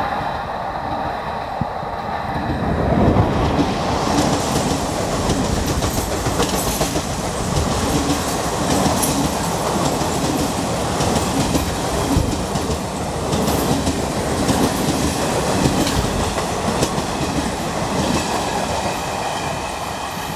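Express passenger train passing at speed, its coach wheels setting up a steady, rhythmic clickety-clack over the rail joints. The noise swells about three seconds in and stays loud.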